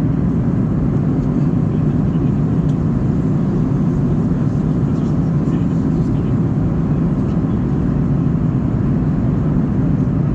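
Boeing 737-800 cabin noise in flight: the steady, deep noise of the jet engines and airflow, heard from inside the cabin, even in level throughout.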